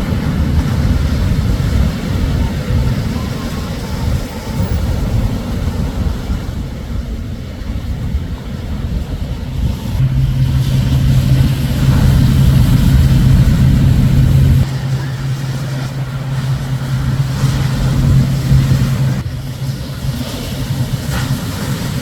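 Shorebreak waves crashing and washing up the beach, with low rumbling surges and wind buffeting the microphone. A steady low hum joins about halfway through and stops near the end.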